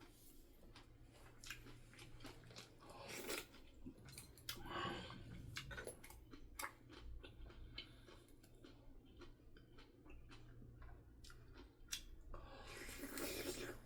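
A person chewing food close to the microphone, with many small wet mouth clicks and a few brief louder bursts.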